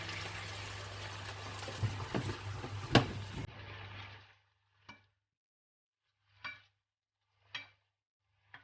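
Food sizzling in a frying pan with soy sauce just added, with a few utensil knocks against the pan, the loudest about three seconds in. The sizzle cuts off at about three and a half seconds, then come four short, separate scrapes of stirring.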